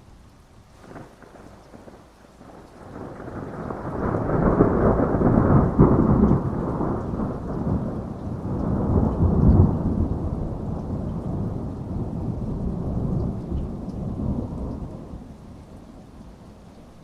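A long roll of thunder over steady rain: it swells about three seconds in, rumbles deep and loud for several seconds, then fades away near the end.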